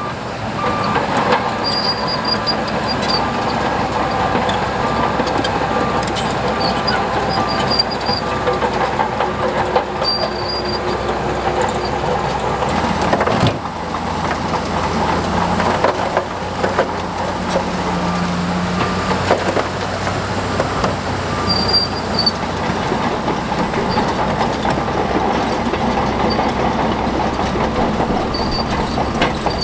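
Heavy tracked earthmoving machinery working: a diesel engine running steadily under the clanking and squeaking of steel crawler tracks. The engine note shifts abruptly about halfway through.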